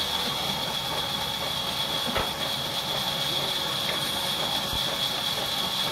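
Wood-cutting saw machine running: a steady hiss with a constant high whine, and a couple of faint knocks.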